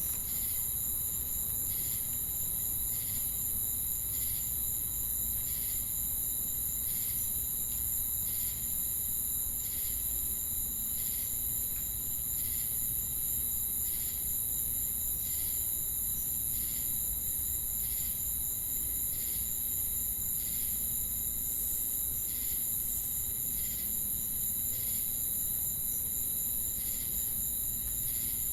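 Crickets and cicadas singing together: a steady, very high-pitched shrill drone, with a separate chirp repeating about every three-quarters of a second.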